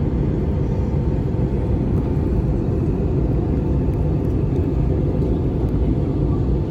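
Airliner cabin noise: a steady low rumble, heard from inside the aircraft.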